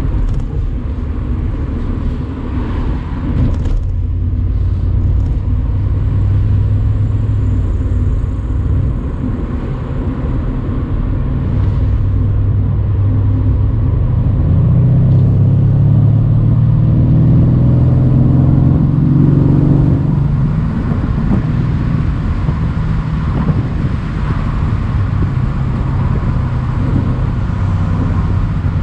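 Mercedes-AMG C63 convertible's twin-turbo V8 running under way, with tyre and wind noise from the open top. About halfway through the engine note swells and climbs in pitch as the car accelerates, then eases back to a steady cruise.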